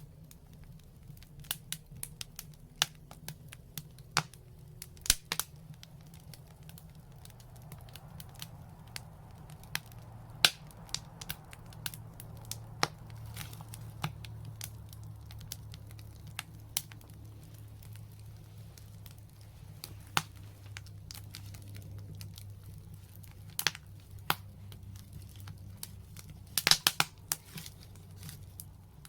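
Wood fire crackling, with irregular sharp pops and a quick run of pops near the end, over a low steady rumble.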